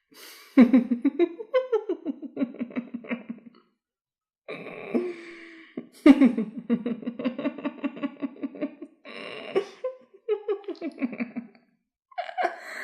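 A person's voice making pulsing, laughter-like vocal sounds in several bursts with short pauses between them, one of them breathy.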